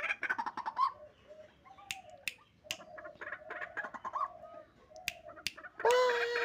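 Chicken calling softly among scattered sharp clicks, then a rooster starts a long crow with a falling pitch near the end.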